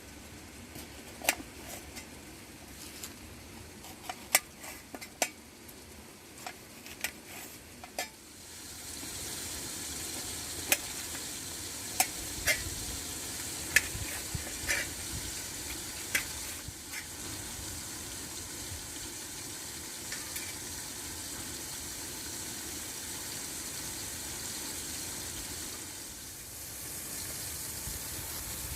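Sharp clinks of a utensil against a pan, then about eight seconds in food starts sizzling as it fries, with occasional stirring clinks over the steady sizzle.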